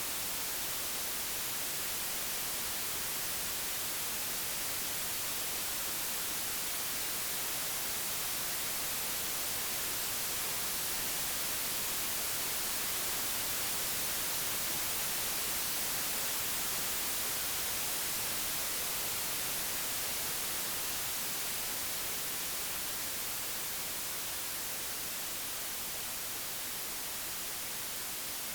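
Computer-generated white noise: a steady, even hiss across the whole range, with no other sound. Its loudness swells gently through the middle and eases slightly near the end.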